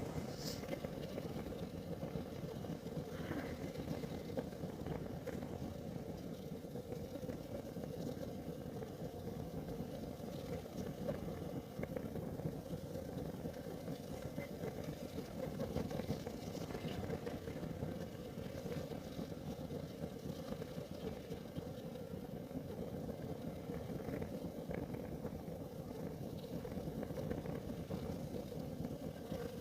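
Kerosene heater burning: a steady low noise from the flame, with a few faint clicks or crackles now and then.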